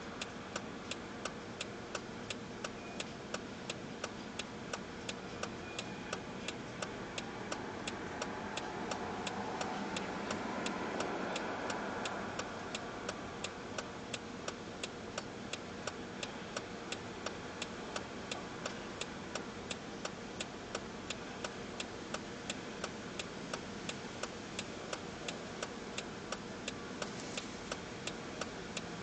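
A steady, sharp ticking about twice a second, over a distant hum of traffic and engines that swells for a few seconds near the middle.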